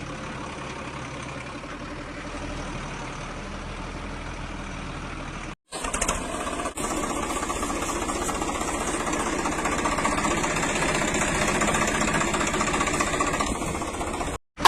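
Vehicle engine running steadily. It breaks off for a moment about five and a half seconds in and resumes louder, then cuts off again near the end.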